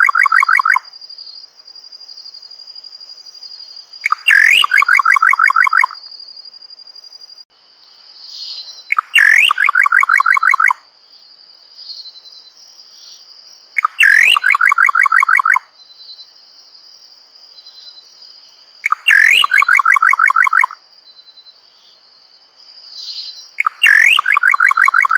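Common pauraque calling about every five seconds: each call is a rising whistle that runs into a quick series of repeated notes. A steady high-pitched insect trill runs underneath.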